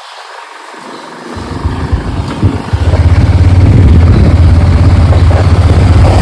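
Motorcycle pulling away and picking up speed: quiet at first, then a low rumble builds about a second and a half in and runs loud and steady from about three seconds in.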